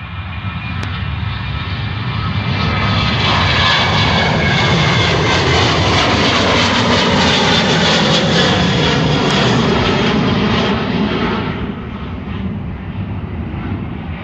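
Jet airliner's engines at takeoff power passing close by. The noise swells to a loud peak, and its whining tones slide down in pitch as the jet passes. It fades over the last few seconds as the aircraft climbs away.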